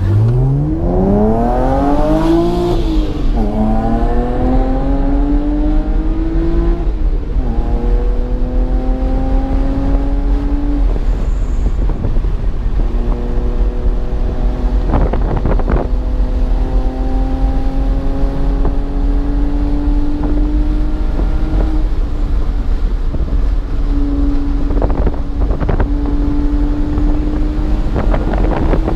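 A BMW's engine accelerating hard through the gears on track. The pitch climbs steeply and drops at upshifts about two and a half and seven seconds in, then runs at a fairly steady, slowly rising pitch with brief lifts, and a few short knocks near the middle and end.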